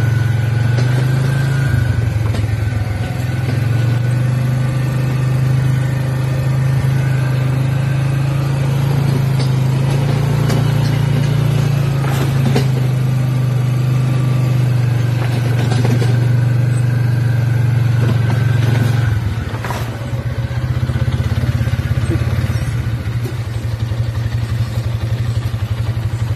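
A small engine running steadily at a constant pitch, which shifts about two seconds in and drops about nineteen seconds in.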